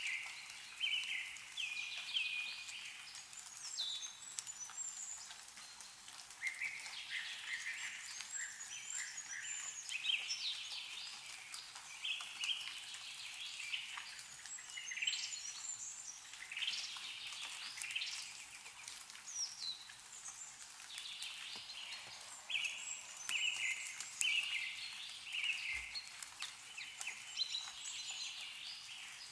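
Small songbirds chirping and trilling in short repeated phrases, several calls overlapping, with faint scattered drips of melting snow falling from trees.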